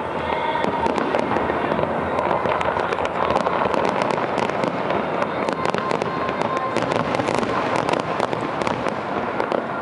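Fireworks display going off: a dense, continuous crackle of many small bursts at a steady loudness.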